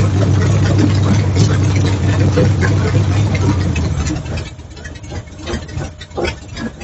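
An engine running steadily, then shutting off about four seconds in, leaving light clicks and rattles.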